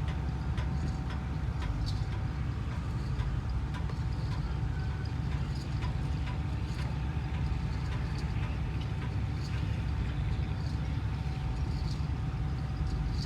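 Steady low rumble of a running vehicle, with a faint steady hum and scattered small clicks and knocks.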